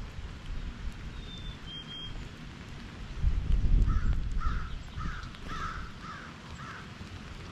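A bird somewhere off in the background gives six harsh calls about half a second apart. There is a brief high whistled note a couple of seconds earlier. A low rumbling noise comes and goes throughout and is loudest a little past three seconds.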